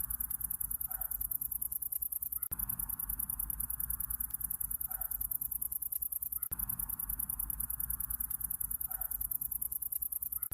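Summer-night insect chorus: a dense, fast, high trilling with a low rumble beneath. A faint short call comes once every four seconds, and the whole pattern repeats on a four-second loop.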